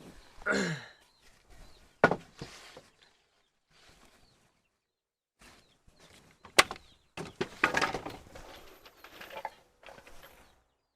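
Intermittent handling noises: two sharp knocks, a few seconds apart, with scraping and rustling between them.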